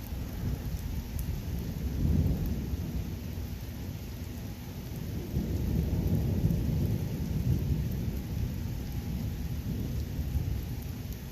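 Low rumbling thunder over steady rain, swelling about two seconds in and again in a longer roll through the middle.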